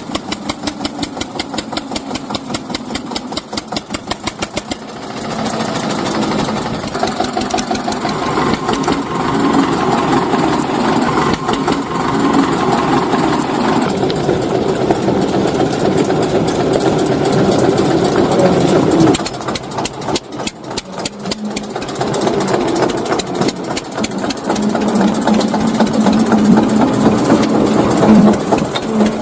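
Small tractor engine running. It chugs at first with evenly spaced beats, about five a second, then picks up and runs harder about five seconds in. It drops back suddenly about two-thirds of the way through and builds up again near the end.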